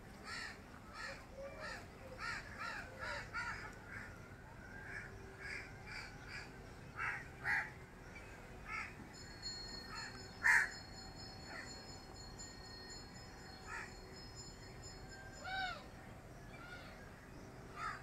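Birds calling: many short calls, coming in quick succession for the first eight seconds or so, then scattered single calls, the loudest a little past halfway. A thin high steady tone runs for several seconds in the middle.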